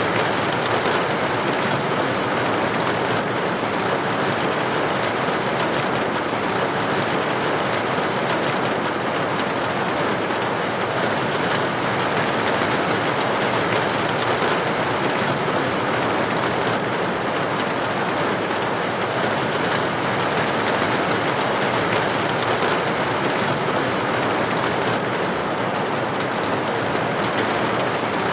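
Steady rain falling against a window pane: an even, unbroken hiss of many drops with no single event standing out.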